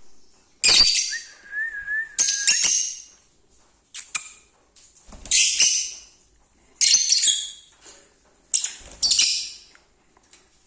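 Lovebirds calling: five loud bursts of shrill chattering calls, a second or two apart, with a thin warbling whistle just after the first burst and a few sharp clicks about four seconds in.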